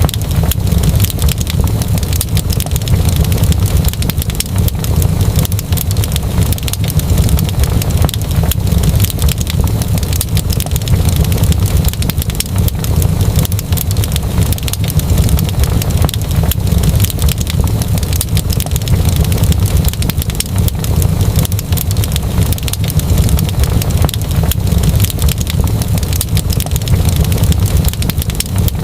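Fire in a fireplace crackling: many small pops over a steady low rumble.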